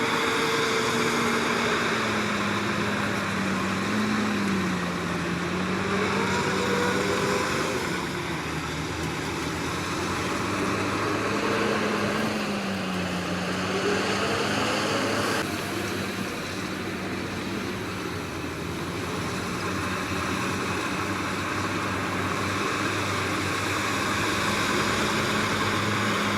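Komatsu D61PX bulldozer's diesel engine running steadily, its note dipping briefly twice as if under load.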